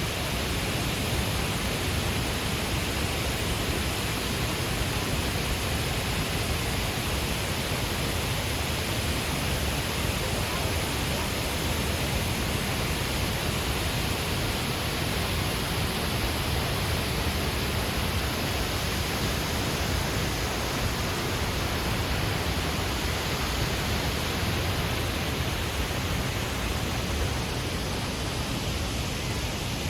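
Man-made waterfall pouring down a cliff face: a steady, unbroken rush of falling water.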